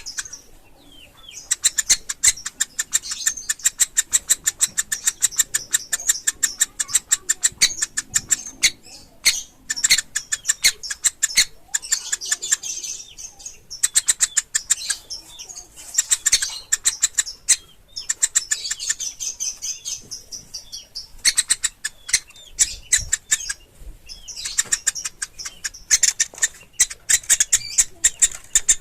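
Woodpecker chicks calling: rapid, high-pitched chittering, many calls a second, in bouts of a few seconds broken by short pauses.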